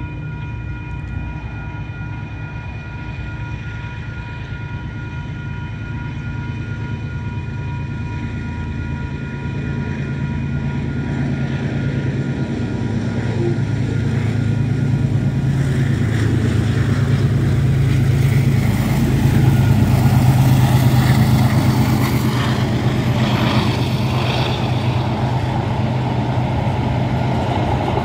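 Diesel-hauled freight train approaching and crossing a level crossing. The locomotive's engine hum grows steadily louder, and wheel-on-rail noise from the locomotive and wagons is loudest about twenty seconds in. A steady crossing warning bell rings through the first half and is then drowned out by the train.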